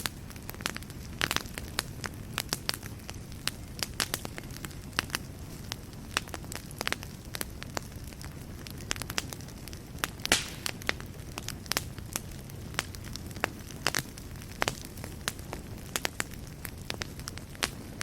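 Wood fire burning in a fireplace: a steady low rumble of flames with frequent sharp, irregular crackles and pops, one louder pop about ten seconds in.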